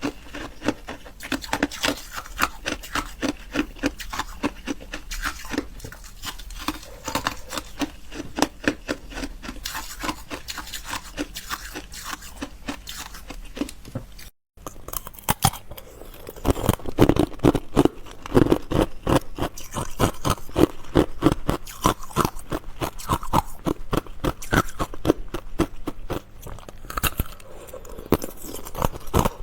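Ice being bitten and chewed close to the microphone: rapid, continuous crunching and crackling, broken by a moment of silence about halfway through, after which the bites are louder.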